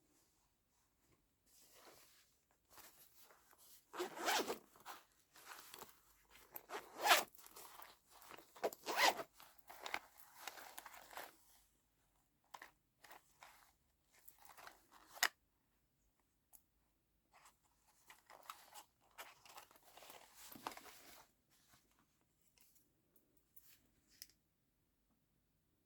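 Needle and thread being pulled through trouser fabric in hand-stitching, with the cloth rustling as it is handled: a run of rasping, zip-like pulls, thinning out about halfway through, and one sharp click.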